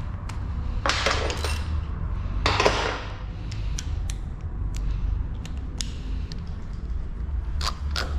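A click-type torque wrench being set: two short scraping rustles of tool handling, then a run of light, irregular clicks as the handle is adjusted, over a low steady hum.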